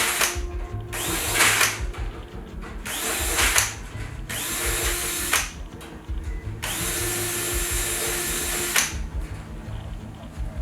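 Power drill running in repeated bursts of about a second, each with a steady motor whine and a hiss, the last burst lasting about two seconds. These are typical of deburring holes in wing-skeleton parts.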